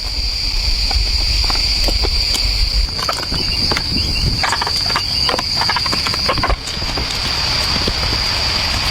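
A steady, high-pitched insect chorus, with scattered light knocks and rustles on top and a low rumble underneath.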